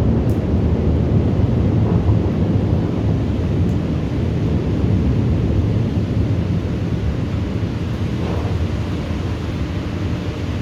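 Low rolling rumble of thunder in a thunderstorm, slowly easing off.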